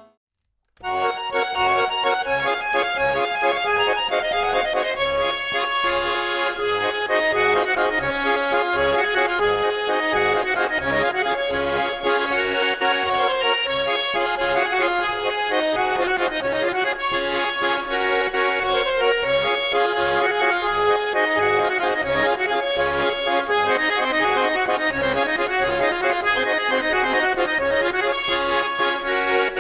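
Accordion playing a traditional-style tune over a steady pulsing bass beat; the music starts just after a brief silence at the very beginning.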